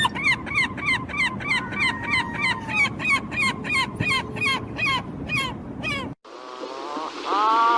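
Animal sound effect: a rapid run of short, harsh calls, about three a second, that stops after about six seconds. A different animal's wavering, gliding calls follow near the end.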